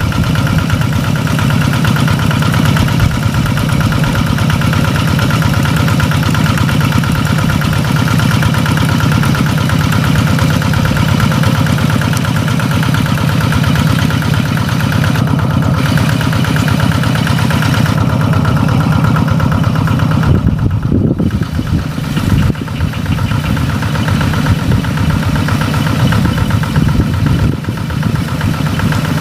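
Rice-field tractor engine running steadily. Its sound dips briefly about two-thirds of the way through.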